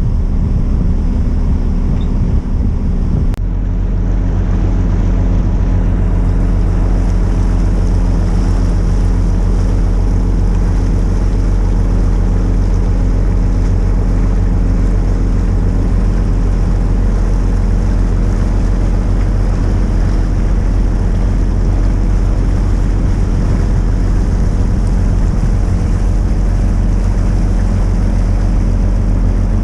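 Sailboat's inboard auxiliary engine running steadily as the boat motors along, with wind buffeting the microphone and water rushing past the hull. About three seconds in there is a brief click and the engine note shifts slightly.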